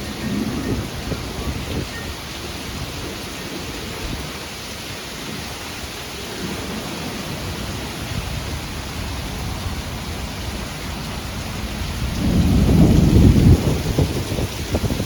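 Thunderstorm: steady rain with low rolling thunder. The loudest rumble swells about twelve seconds in and lasts about two seconds.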